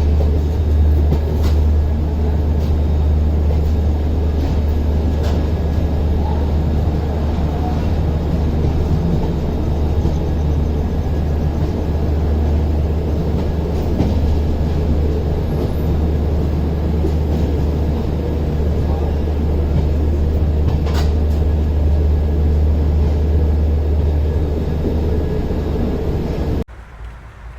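Passenger train running, a steady loud low rumble with a few faint clicks. Near the end it cuts off abruptly to a much quieter sound.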